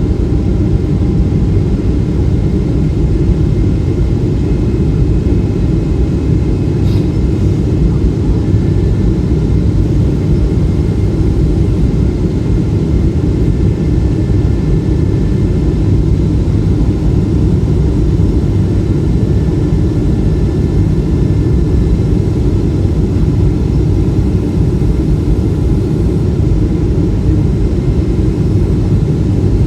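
Steady roar of engines and airflow heard inside the cabin of a Boeing 777-300 in flight, its Rolls-Royce engines running evenly, with the sound weighted heavily toward the low end.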